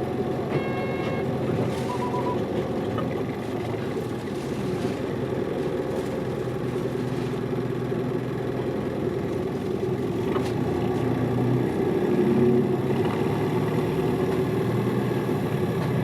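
Hino Liesse small city bus running, its diesel engine and drivetrain heard from inside the passenger cabin. The engine note shifts in pitch through the middle and is loudest about twelve seconds in.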